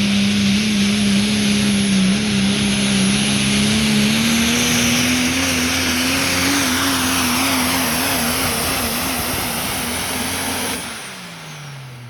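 Pulling truck's engine at full throttle under load. Its pitch climbs slowly and starts to waver about halfway through, then the throttle is cut about a second before the end and the engine sound falls away with a dropping pitch.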